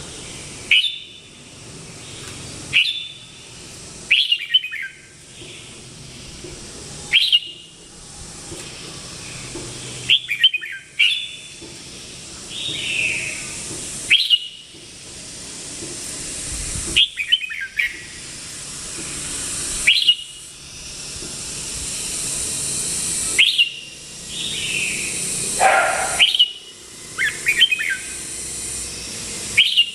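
Red-whiskered bulbul calling: short, sharp rising notes repeated every two to three seconds, with a high hiss swelling and fading between them.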